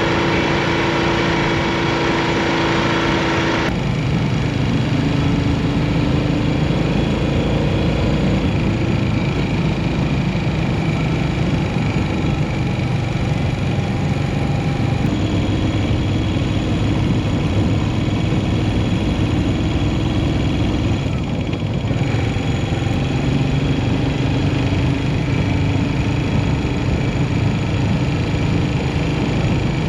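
Yamaha SR400's air-cooled single-cylinder engine running under way, its pitch rising and falling with throttle and speed, over a steady rushing noise. The sound changes abruptly about four seconds in and again a little past twenty seconds.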